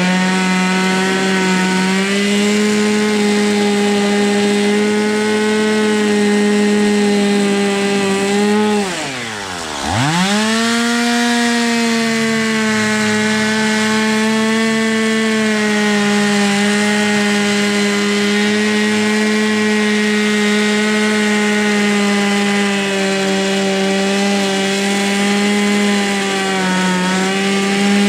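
Two-stroke chainsaw running hard, cutting through ash wood at a steady high pitch. About nine seconds in, the engine drops almost to idle, then revs straight back up to full speed and keeps cutting.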